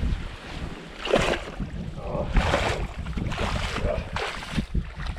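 Water swishing and splashing in separate strokes, about one a second, with wind rumbling on the microphone.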